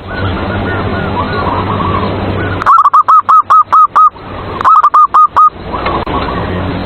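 Zebra dove (perkutut) song: two quick runs of short, evenly spaced cooing notes, about seven and then five, starting a few seconds in, over faint chirping from other birds.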